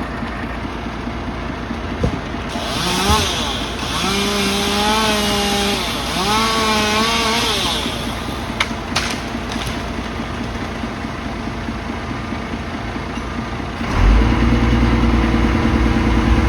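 A chainsaw revving up and back down three times as it cuts, over the steady running of a heavy machine's engine. A few sharp cracks follow. About fourteen seconds in, a deeper engine sound starts up and becomes the loudest thing.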